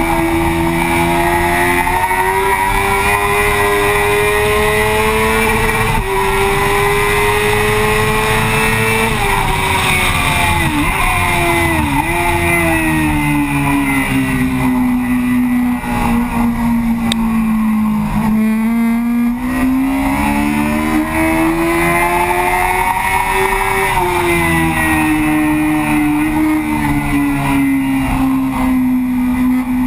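Yamaha FZ6's 600 cc inline-four engine running hard at high revs on a track lap, heard from the fuel tank, with steady wind rush over it. The engine note climbs, then falls with two quick dips about ten to twelve seconds in. It is lowest around eighteen seconds in, then rises and falls again as the bike accelerates and slows through corners.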